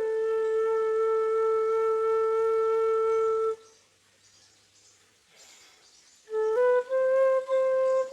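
Flute playing a slow melody: one long held note for about three and a half seconds, then nearly three seconds of near silence, then the melody picks up again with a phrase of shorter notes.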